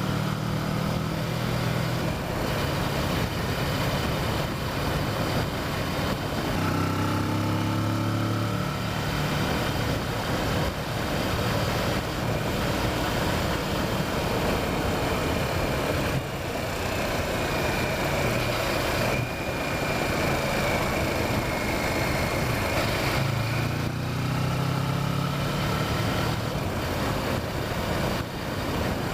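Kawasaki Versys motorcycle engine running under way, heard through heavy wind and road noise. The engine note changes pitch several times as the revs rise and fall.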